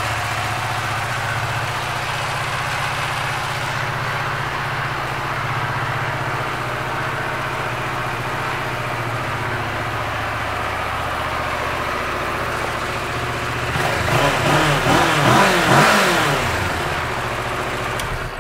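2012 Kawasaki Ninja 650's parallel-twin engine idling steadily. About three-quarters of the way through it is revved up and down a few times, louder, then settles back to idle.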